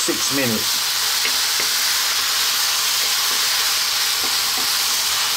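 Chopped vegetables and tomato sizzling steadily in a hot wok while a wooden spatula stirs them, with a few light knocks of the spatula against the pan.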